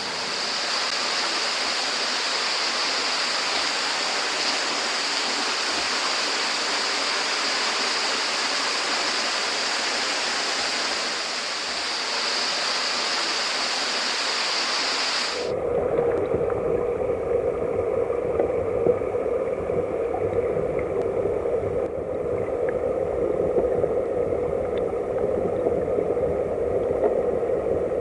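Mountain headwater stream rushing steadily over rocks. About halfway through, the sound changes abruptly to a muffled, low, dull rush with the hiss gone, as the stream is heard underwater.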